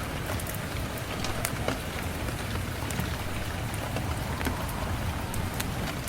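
Steady rain with sharp crackles from a wood fire scattered irregularly through it.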